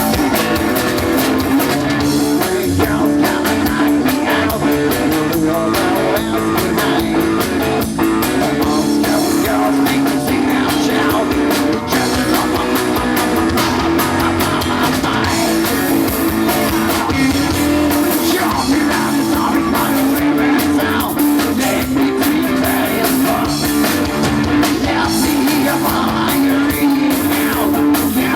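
Rock band playing live: guitar and drum kit, loud and steady throughout.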